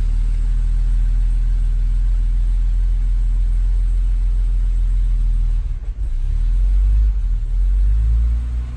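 Mercedes 280SL's twin-cam straight-six engine running steadily at idle on its first start after several months laid up. The sound dips briefly about six seconds in, then runs a little louder for a couple of seconds.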